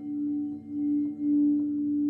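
Singing bowl ringing with one sustained low tone that wavers in loudness at first, then swells and holds louder and steady about halfway through.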